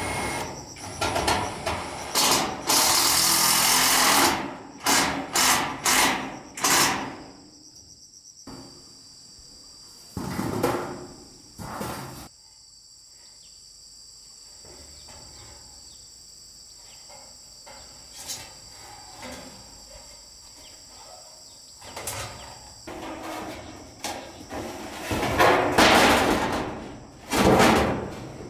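Building work with hand and power tools: a loud burst of a power tool about three seconds in, then a run of sharp knocks. Insects chirp steadily through a quieter middle stretch, and heavier knocks and scraping come back near the end.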